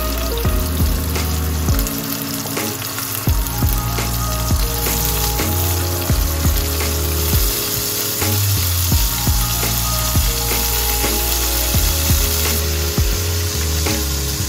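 Chicken pieces frying in oil in a pan, a steady sizzle with small spits and pops, over background music.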